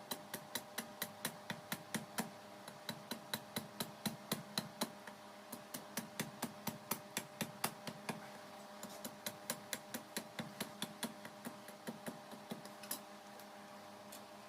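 Rapid, light hammer taps on metal, about three to four a second with a short pause midway, over a steady low hum.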